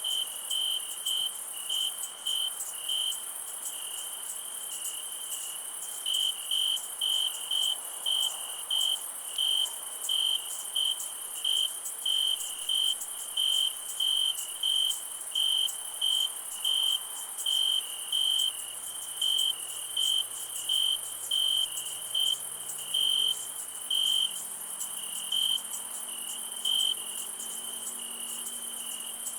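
Night insect chorus: a cricket chirping in short, regular pulses about one and a half times a second, over a continuous high-pitched insect trill.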